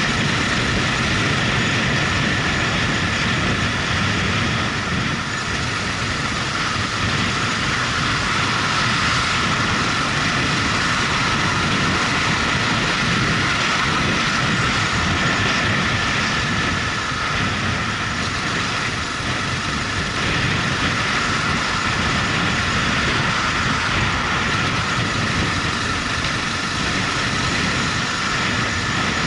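Motorcycle running at a steady road speed, its engine mixed with a steady rush of wind noise.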